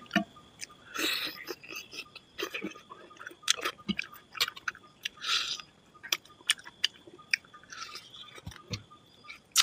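Close-up eating sounds: chewing with many short, wet clicks, and fingers mixing rice and chicken curry on a steel plate, with a few brief hissy smacks.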